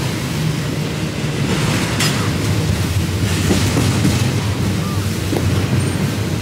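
Double-stack intermodal freight train rolling past close by: a steady, loud low rumble of steel wheels on rail, with one sharp click about two seconds in.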